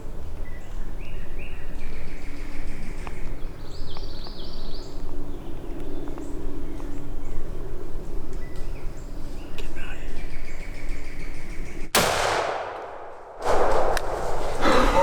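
Quiet woods with small birds calling, then a single shotgun blast about twelve seconds in, followed by loud rustling.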